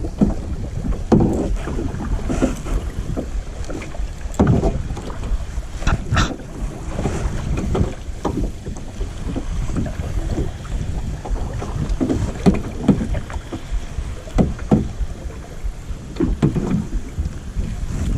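Kayak paddle strokes splashing in lake water at an irregular pace, over a steady low rumble of wind on the microphone.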